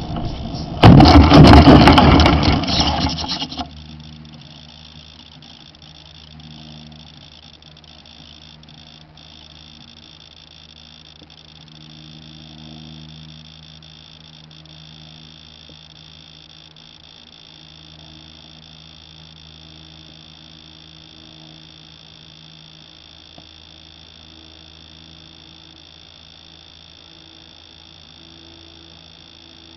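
Model airplane's .46-size engine running loudly for about three seconds and then stopping abruptly, leaving only a faint steady hum.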